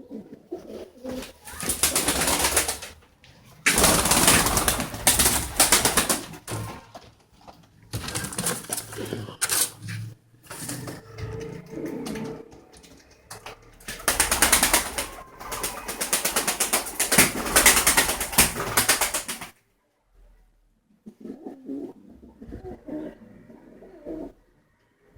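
Pigeons cooing in a small enclosed space, broken up by several long bursts of loud rustling, hissing noise.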